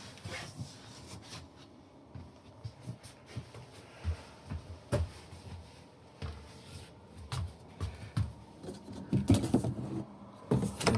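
Small computer case fans on rubber isolators running quietly with a faint steady hum, while the fan box is handled, giving scattered knocks and bumps, several louder ones near the end.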